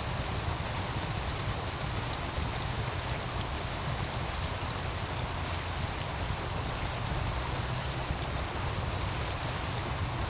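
Wood fire crackling with scattered sharp pops, over the steady rushing of a meltwater stream and a steady low rumble.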